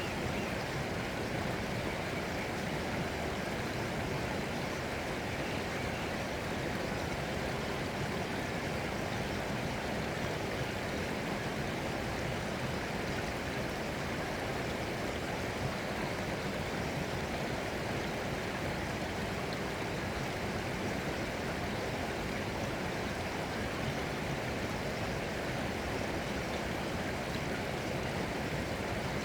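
Running water, such as a stream, flowing in a steady, unbroken rush.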